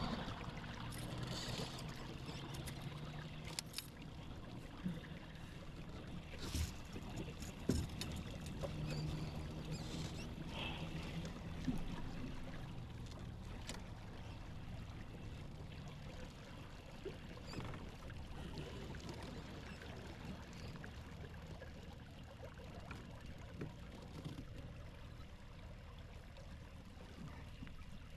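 Water lapping and trickling around a fishing kayak, with a few light knocks and clicks now and then.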